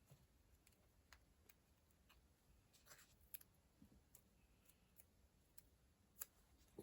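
Near silence broken by faint, scattered small clicks and taps, about ten at irregular spacing, from pen and paper being handled over a planner.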